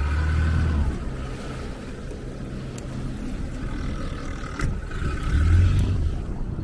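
Motorboat engine running, with wind and water noise. Its low drone swells twice, at the start and again about five seconds in.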